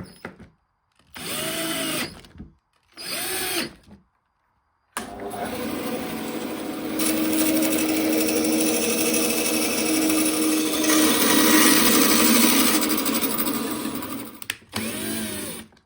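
Power drill: two short trigger bursts, its motor speeding up and slowing down, then about nine seconds of continuous running under load, most likely driving or drilling into the hatch frame.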